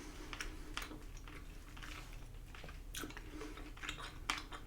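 Faint, close-up chewing of soft, chewy Korean rice cakes (tteokbokki), with irregular wet mouth clicks and smacks.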